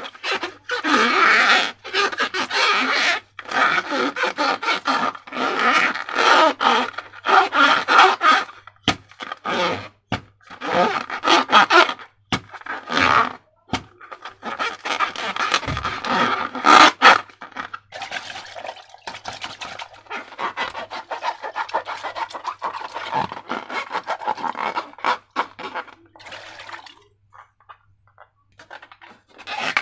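Hands working slime and rubber balloons: irregular rubbing and handling noises broken by short sharp clicks, with brief pauses.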